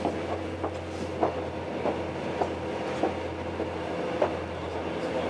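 Passenger train running along the track, heard from inside the carriage: wheels click over rail joints about every half second over a steady low rumble and hum.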